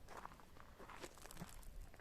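Faint footsteps, a few irregular steps and scuffs.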